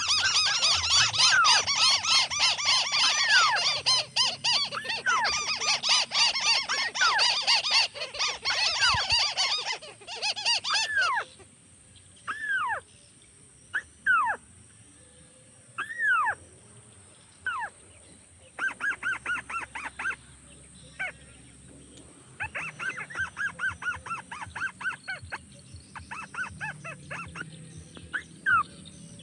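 Small crake calls: a dense overlapping chorus of rising-and-falling notes for about the first eleven seconds, then single arched notes and short rapid rattling runs.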